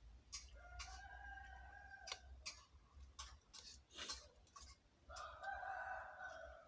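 A rooster crowing twice, one long call about a second in and another about five seconds in, faint, over a scatter of sharp clicks or knocks.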